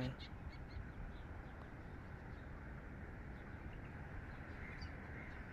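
Faint, scattered short calls of a flock of waterbirds on the tidal flats, over a steady low background hiss of open air.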